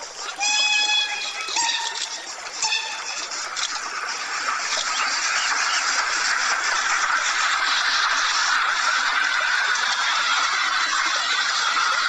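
Bird calls: a few honking calls in the first three seconds, then a dense, steady chorus of higher chatter that builds and holds.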